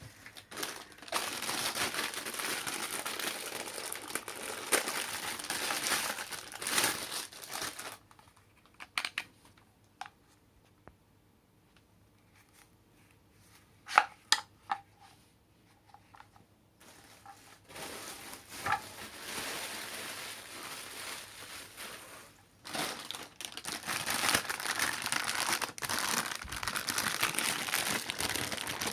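Packaging being handled while a cordless vacuum is unpacked: plastic and wrapping crinkling and rustling in long stretches. In a quieter pause in the middle there are a few sharp knocks.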